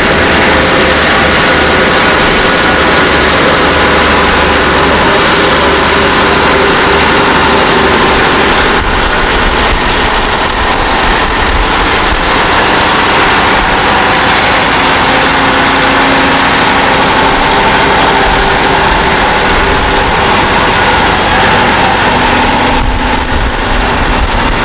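Competition pulling tractor's engine running loud and steady under heavy power.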